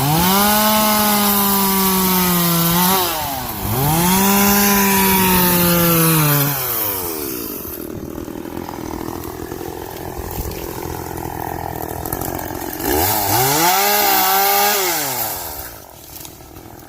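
Two-stroke chainsaw revving to full throttle in three bursts, each held for about two to three seconds, its pitch sagging slightly during each one. It drops to a lower, steadier running between the second and third bursts.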